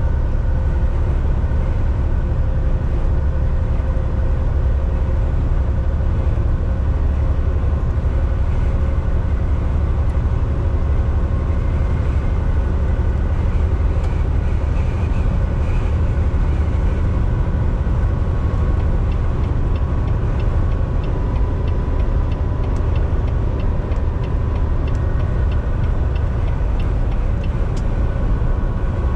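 Volvo VNL 760 semi truck cruising on the highway, heard from the driver's seat: a steady deep engine drone and road rumble with a constant hum. A faint run of regular ticks, about two a second, comes in during the last third.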